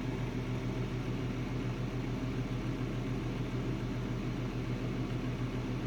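Steady low mechanical hum at one constant pitch, with no knocks or handling sounds standing out.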